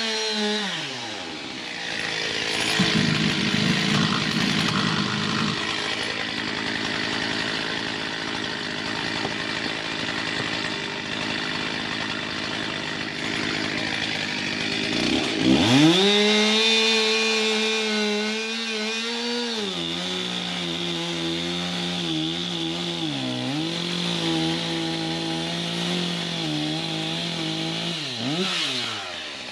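Stihl chainsaw cutting through wood. The engine pitch drops as the chain bogs into the cut about a second in, and it runs under load for a long stretch. Around the middle it revs high and steady for a few seconds, then settles lower with dips in pitch as it keeps cutting. It revs up and drops once more near the end.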